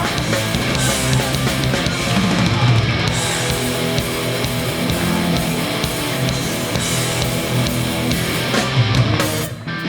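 Live hardcore punk band playing: distorted electric guitars, bass and drum kit, with a brief break in the playing shortly before the end.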